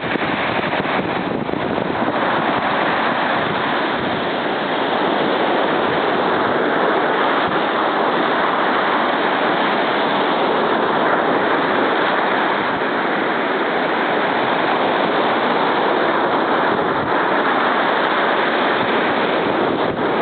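Rough sea surf breaking and washing on the shore in a steady, loud rush, with wind on the microphone.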